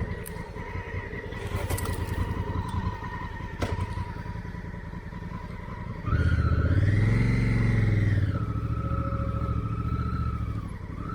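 Honda Africa Twin motorcycle engine running at low speed while the bike is walked and pushed through soft ground, with a few sharp clicks early. About six seconds in the throttle is opened: the engine gets louder and its pitch rises and falls over about two seconds, then it settles back to a steady low-speed run.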